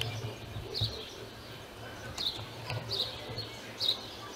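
Small birds chirping outdoors: short high chirps every half second to a second, over a faint low rumble.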